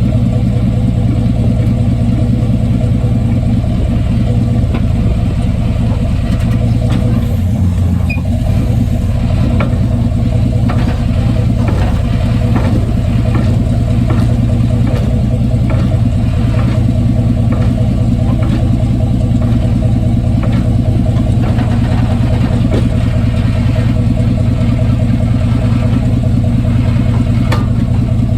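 1995 Chevy Silverado's 5.7 L V8 and drivetrain running steadily, heard from under the truck, with irregular knocks and clicks through the middle of the stretch.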